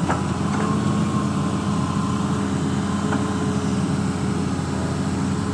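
Engine of a drain-cleaning machine running steadily with an even, low hum.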